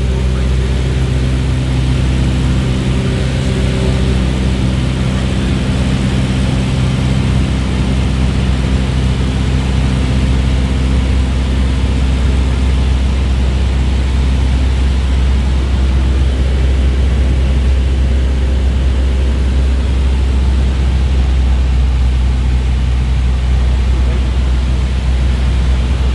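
An engine running steadily: a low hum of even tones that fades after about eight seconds, under a loud rushing noise and a heavy low rumble.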